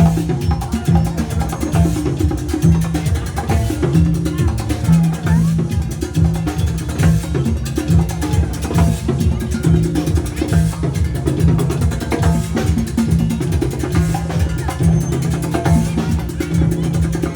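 A band playing music with a steady, loud beat of drums and percussion.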